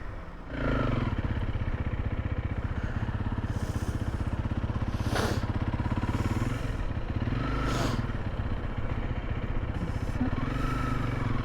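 Motorcycle engine running at low revs with a rapid, even pulsing rumble. It picks up about half a second in, and its pitch rises and falls briefly a few times.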